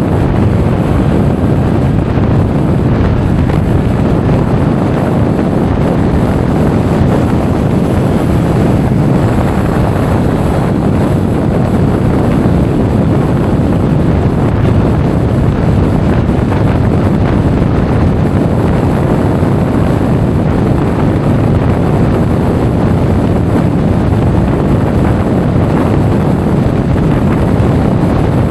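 Loud, steady wind rush buffeting an action camera's microphone while riding a Honda Forza 350 scooter.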